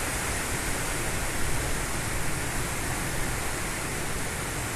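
Typhoon-force wind blowing steadily across the microphone: a continuous rushing noise with an uneven low rumble.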